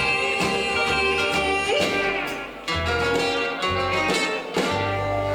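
Live rockabilly band playing the instrumental close of a song: electric guitar lines over bass and drum hits, with a brief break a little past halfway, then a final chord held near the end.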